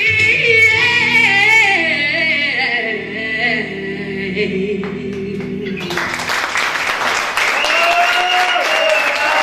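A live band ends a song on a long held note sung by several voices with vibrato. About six seconds in the music stops and the audience applauds, with a few voices calling out.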